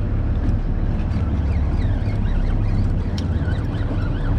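Steady low rumble of a sportfishing boat's engine running, with some wind on the microphone.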